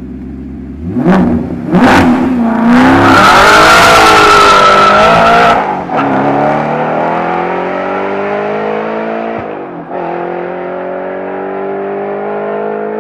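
2005 Maserati Coupé GT's 4.2-litre V8 through a Larini aftermarket exhaust: idling, two quick rev blips, then a loud hard pull. The revs fall sharply about six seconds in and again near ten seconds, as at gear changes, and climb steadily between them.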